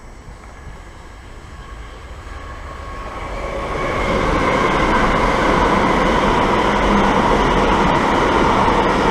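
Passenger train approaching and then passing through the station at speed, the sound building over the first few seconds into a steady loud rush of wheels on rail with a steady high whine.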